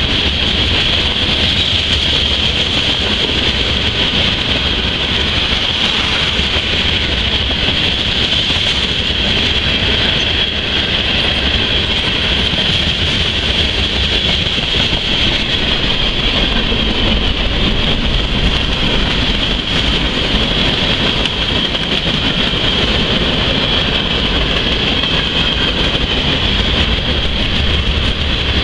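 Freight train's cars (boxcars, tank cars, hoppers and gondolas) rolling past on the rails: a steady rumble of wheels with a steady high-pitched whine running through it.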